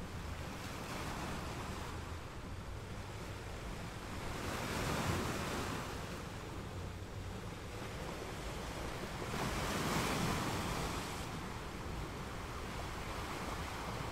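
Gentle ocean waves washing in over a steady hiss of surf. Two waves swell and break, about five seconds apart.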